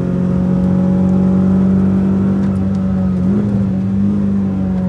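Renault Twingo RS's 1.6-litre four-cylinder engine, heard from inside the cabin, running under load at high and nearly steady revs, its pitch rising slightly about three seconds in.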